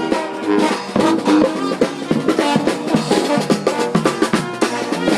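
New Orleans brass band playing, with snare and bass drum hitting a busy, steady beat under the horns.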